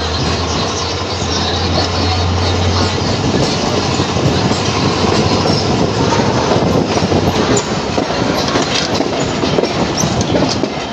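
Passenger train running along the line, heard from on board: continuous wheel and carriage noise with many small knocks. A steady low hum stops about three seconds in, and the running noise is a little louder after that.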